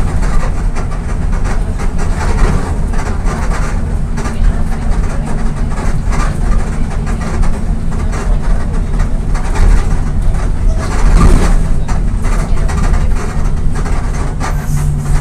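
VolksBus 17.230 EOD bus's diesel engine running, a steady heavy low rumble with rattling over it; the bus is fitted with the five-speed gearbox from a 17.210 EOD. A steady low drone comes in near the end.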